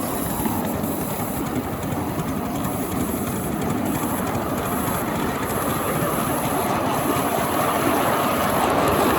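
A 5-inch gauge miniature train running along the track, its wheels rattling over the rails, growing slowly louder toward the end.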